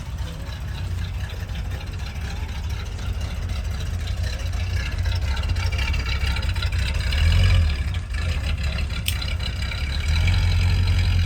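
A 1988 Chevy C1500 pickup's engine running, given gas as the truck is pulled forward, with the rumble swelling about seven seconds in and again from about ten seconds in. A single sharp click about nine seconds in.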